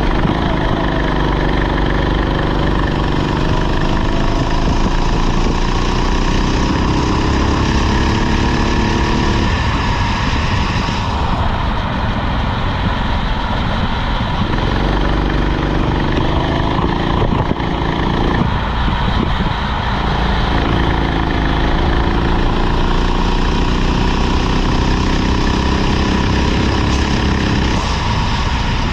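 Rental go-kart engine under load, its pitch climbing steadily for several seconds and then falling off, again and again. There are long rising pulls about a second in, at about a quarter of the way through, and after two-thirds, with dips between them.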